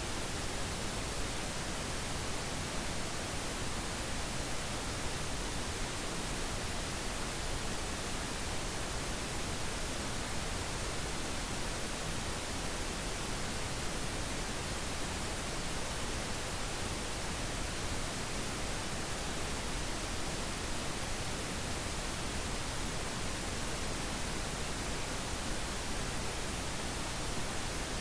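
Synthetic pink noise: a steady, even hiss with no pitch and no changes.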